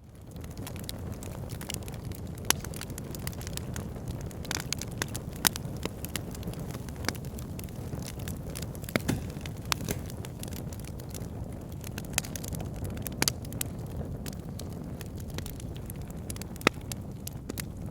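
Wood fire in an outdoor fire pit burning with a steady low rumble of flames and irregular crackles and sharp pops of burning wood.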